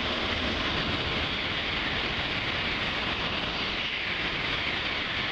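Shinkansen bullet train passing a platform at high speed without stopping: a steady, loud rushing noise.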